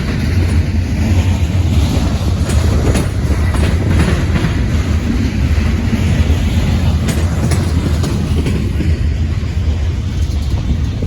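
Freight train of railroad tank cars rolling past: a steady loud rumble with scattered wheel clicks.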